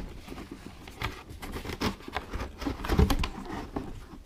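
Rustling, crinkling and small clicks of cardboard and plastic toy packaging being handled, with a heavier knock about three seconds in.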